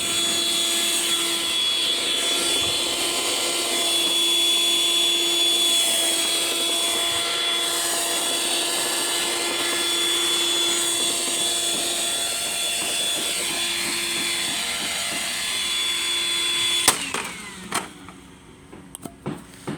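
Eureka Boss SuperLight bagless upright vacuum cleaner's motor running with a steady whine. About seventeen seconds in there is a sharp click, and the motor winds down in falling pitch and stops: the battered motor has died.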